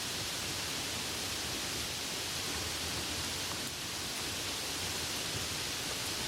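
Soft rain falling, a steady even hiss with no single drops standing out.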